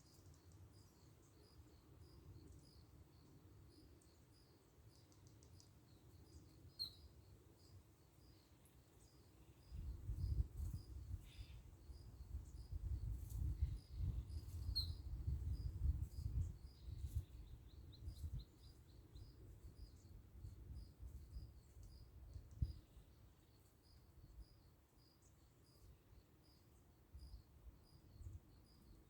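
Insects, likely crickets, chirping steadily at about three chirps a second, with a few short bird chirps and a brief trill about two thirds of the way in. A low rumbling noise, such as wind on the microphone, rises about a third of the way in and is the loudest thing for several seconds before easing.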